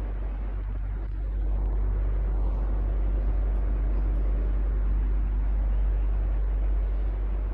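Electric fan running steadily: a constant low hum under an even whoosh of moving air, a little louder after the first second or so.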